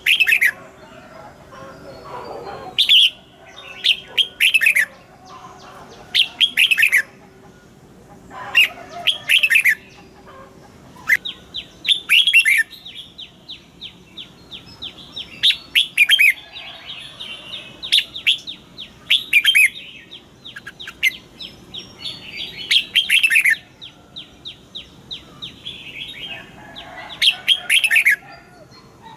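Red-whiskered bulbul singing: short, loud whistled phrases of falling notes, repeated every second or two, with a long run of quick high notes through the middle.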